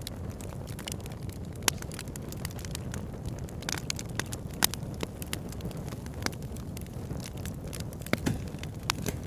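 Fire burning in a fireplace: a steady low rush of flames with frequent sharp crackles and pops, the loudest about two seconds and about four and a half seconds in.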